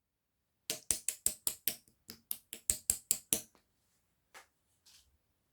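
Clear slime being worked by hand, giving a quick run of about a dozen sharp clicking pops at about five a second, then two fainter ones near the end.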